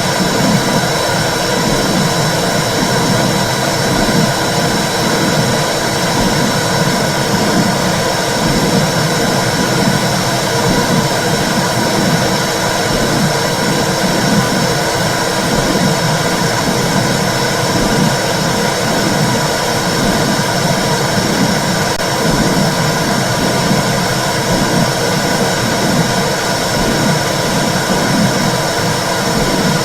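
Womb sound for soothing babies: a loud, steady whooshing rush with a low pulse repeating a little more than once a second, like blood flow with a heartbeat.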